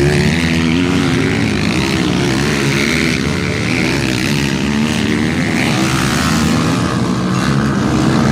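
Motocross dirt bike engines running, their pitch rising and falling as they rev.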